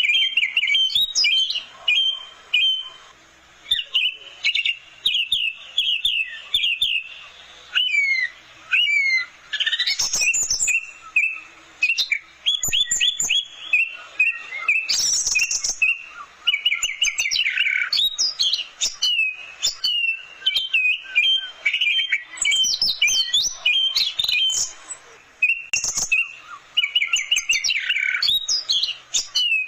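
Orange-headed thrush singing a rapid, varied song of fast repeated notes and quick sweeping whistles, in short bursts separated by brief pauses.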